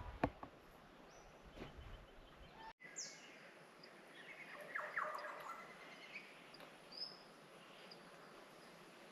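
Birds calling in tropical monsoon forest, faint: a quick high falling whistle, then scattered chirps and short whistled notes. A few low thuds and clicks come in the first two seconds.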